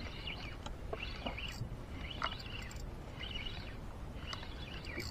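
A bird calling over and over, a short chirping phrase repeated about once a second, over faint steady low background noise.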